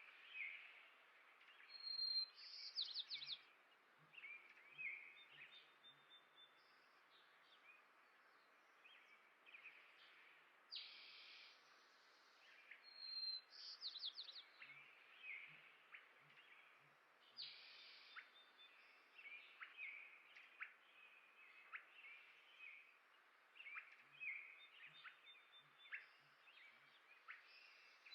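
Small songbirds chirping and singing, a similar song phrase coming back about every eleven seconds, over a faint steady hiss.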